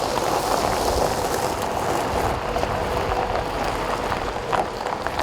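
Steady rushing hiss with a faint low hum, broken by a few light clicks near the end.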